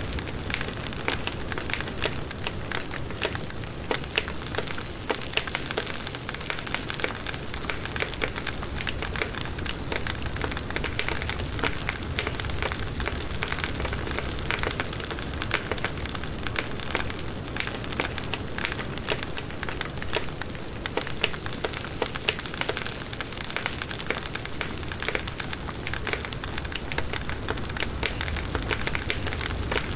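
Firewood burning in a campfire: a continuous crackle of many small, irregular snaps and pops over a steady hiss.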